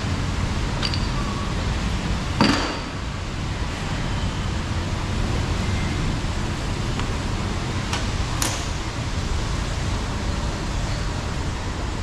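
Repair-shop noise: a steady low rumble of passing street traffic, with a loud metallic clank about two and a half seconds in and a sharp click around eight and a half seconds, from tools and parts being handled while a scooter's rear brake is taken apart.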